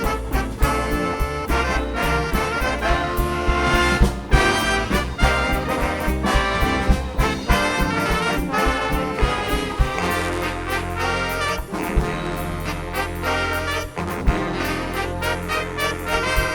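Big band playing swing jazz: a brass section of trombones and trumpets over bass and drums.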